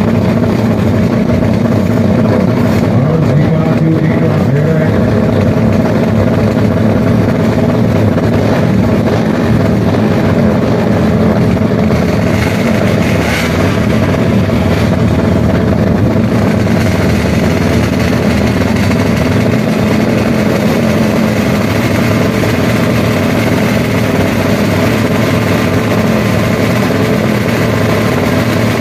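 Drag-race motorcycle engines running loudly and steadily at the start line, held at steady revs without launching.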